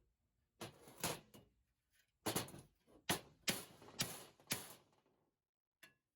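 Impact wrench run in about seven short rattling bursts.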